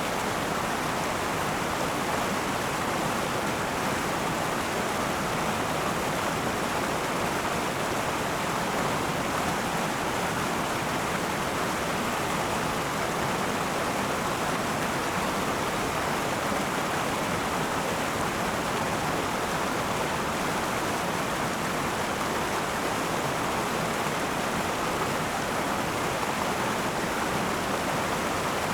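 River water flowing and splashing over rocks: a steady, even rush with no changes.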